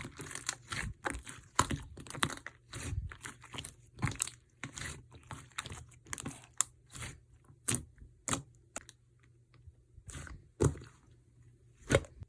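Slime being squeezed, pressed and stretched by hand, making irregular crisp pops and crackles, several a second at first and sparser later, with one loud pop near the end.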